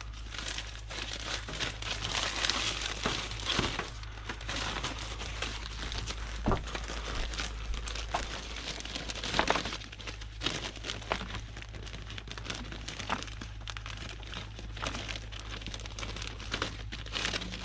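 Plastic bag crinkling and rustling with irregular small crackles as it is handled and wrapped around a disconnected fuel line.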